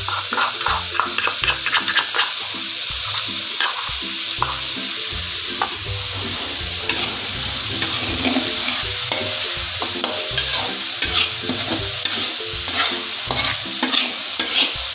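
Ground spice paste sizzling as it fries in hot oil in an aluminium wok, with a metal spoon scraping and clicking against the bowl and the pan as the paste is stirred.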